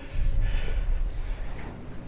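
A low rumble in a horror-film soundtrack, strongest about half a second in and then easing off.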